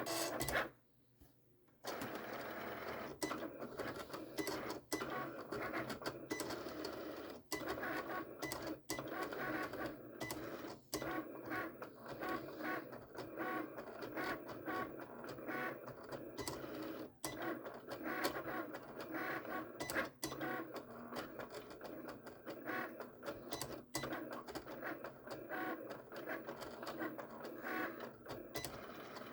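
Electronic vinyl cutting machine cutting a decal, its motors whirring in short, changing strokes with frequent brief pauses. It starts about two seconds in.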